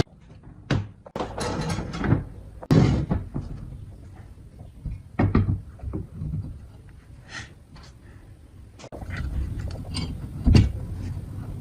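A string of separate knocks and thuds, several seconds apart. Between them the background changes abruptly a couple of times.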